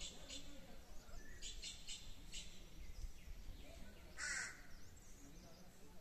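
Wild birds calling at dawn: a few short, high chirps in the first couple of seconds, then one louder, harsher call about four seconds in.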